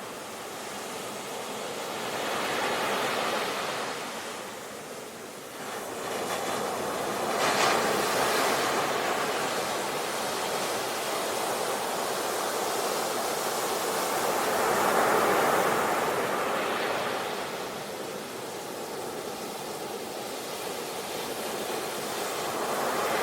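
Ocean surf: waves breaking and washing in, a steady rush that swells and ebbs about four times, every five to eight seconds.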